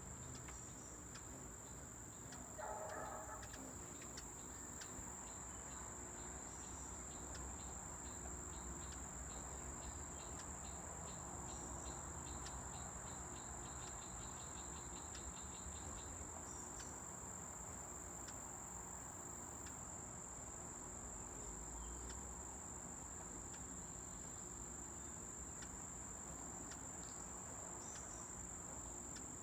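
Insects trilling outdoors: a steady, high-pitched, unbroken trill, with a run of rapid faint ticking in the middle.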